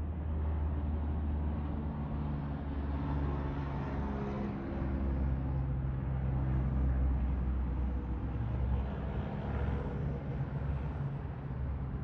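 Jet airliner's engines passing with a steady low rumble whose pitch drifts slowly, and a faint thin high whine in the second half.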